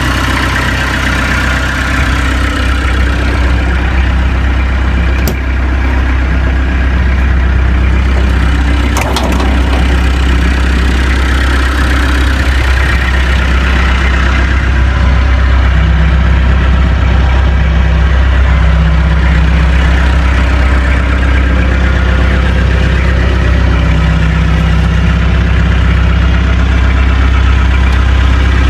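Peugeot 404's four-cylinder engine idling steadily with a deep, even hum. There are two faint clicks, about five and nine seconds in.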